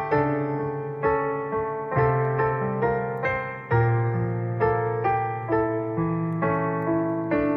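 Background music: a gentle piano or electric piano playing a steady flow of notes over sustained bass notes that change about every two seconds.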